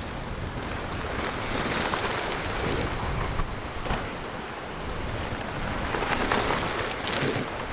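Strong wind buffeting the microphone: a steady rushing noise with a heavy low rumble, swelling in gusts.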